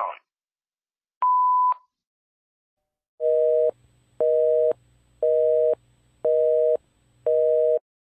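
Voicemail beep, a single high tone about half a second long, followed by a telephone busy signal: five evenly spaced two-note pulses, about one a second.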